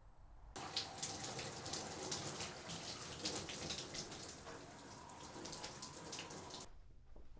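Shower running, water spraying from the head and splashing, a dense steady hiss full of small spatters. It starts suddenly about half a second in and cuts off abruptly near the end.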